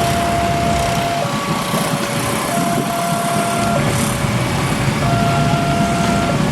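Level-crossing warning alarm sounding two alternating tones, switching back and forth about every second and a quarter, over a loud, steady rushing noise.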